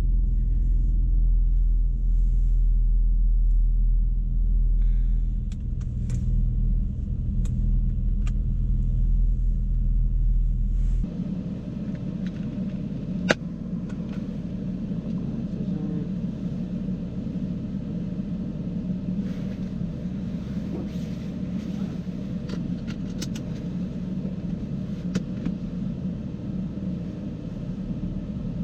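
BMW E60 M5's V10 engine running at low revs while still warming up from a cold start. About 11 seconds in the sound changes abruptly as the deep low rumble drops away, and a single sharp click comes a couple of seconds later.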